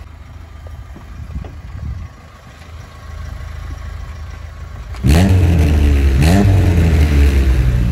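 Dacia Duster's swapped-in Renault Mégane 2 RS 2.0 turbo four-cylinder, heard at the tailpipe of its custom exhaust: idling, then about five seconds in revved hard in loud blips, the pitch rising and falling.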